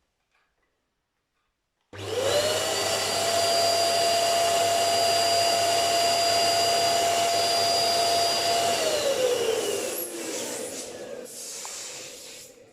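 Electric balloon air pump switches on about two seconds in and runs with a steady high whine. After about seven seconds its pitch slides down as it winds down, and it fades away near the end.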